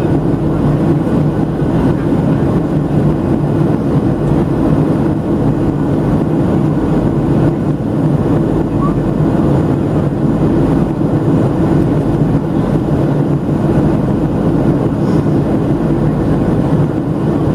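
Steady cabin noise of a Boeing 737-700 in flight, heard from inside the passenger cabin: a constant low drone of its CFM56-7B turbofan engines and the airflow over the fuselage.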